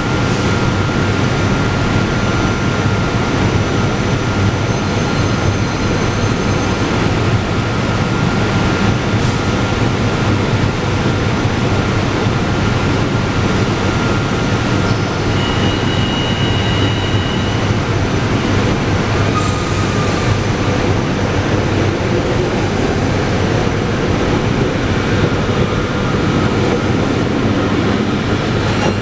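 SEPTA Regional Rail train running through the underground Jefferson Station: a steady, loud rail rumble with brief high squealing tones from the wheels partway through.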